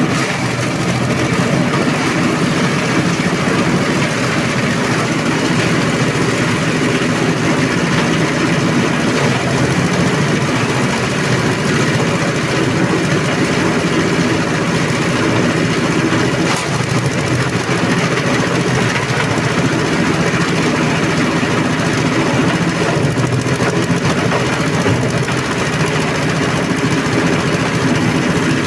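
SM-30 multifunction grass chopper and compost shredder running steadily with a loud, even mechanical noise.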